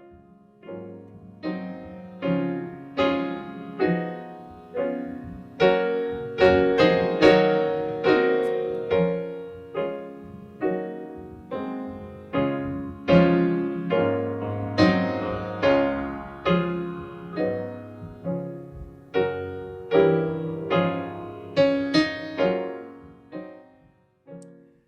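Solo piano playing a slow, gentle piece of separately struck chords and notes that fade after each strike, dying away near the end.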